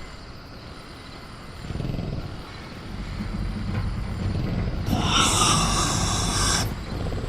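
Sound-designed velociraptor growling low and rumbling, building over a few seconds, with a harsh hissing burst of under two seconds near the end.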